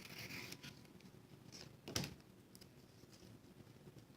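Faint rustle of paper and adhesive liner being handled as the backing is peeled off double-sided tear and tape, with a single light tap about two seconds in.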